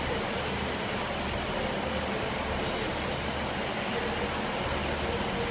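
Train running into a station platform: a steady rumble with a low hum.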